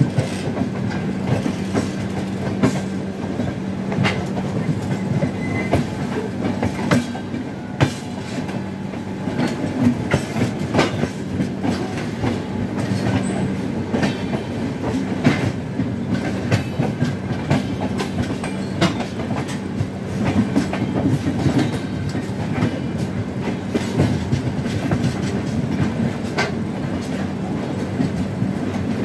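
Wheels of two Indian Railways express trains rolling slowly side by side over yard points, clattering with sharp, irregular clicks over a steady low hum.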